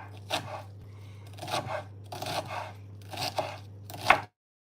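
Kitchen knife cutting through food with about five separate rasping strokes, roughly one a second. The sound cuts off suddenly near the end.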